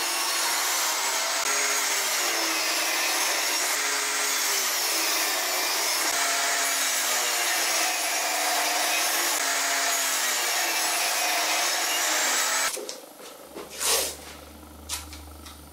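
Power tool working pine wood, running steadily with its pitch wavering up and down under the load, then cutting off abruptly about thirteen seconds in. A couple of sharp knocks follow over a low hum.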